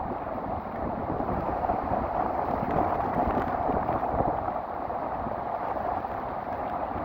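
Storm surf washing against the shore under strong wind that buffets the microphone with low, irregular rumbles, in rain.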